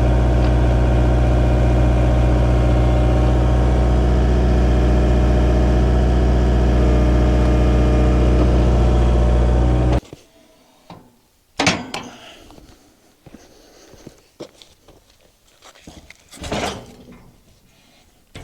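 An engine idling steadily with an even hum, shut off abruptly about ten seconds in. A few sharp metallic knocks and clanks follow.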